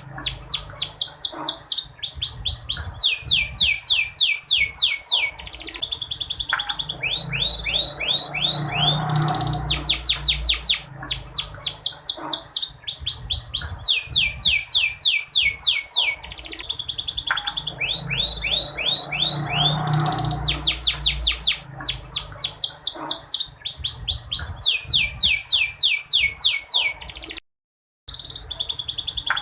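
Domestic canary singing rapid trills of quick downward-sweeping notes, the same phrase sequence repeating about every five and a half seconds, as in a looped recording, with a half-second break near the end. The uploader presents it as a female canary calling, used as a lure to stir male canaries to sing.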